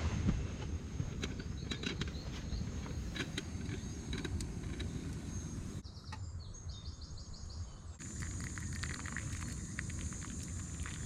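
Small birds chirping in short repeated notes over a steady low outdoor rush, with scattered light clicks; a thin high steady tone comes in about eight seconds in.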